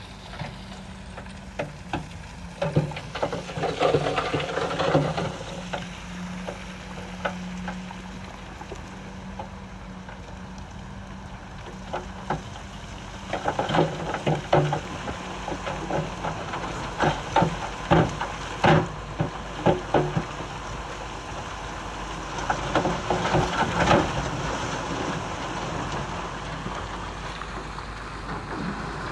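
Bulldozer engine running steadily under crackling and rattling of stone and steel tracks, with bursts of clattering knocks a few seconds in, through the middle, and again near the end.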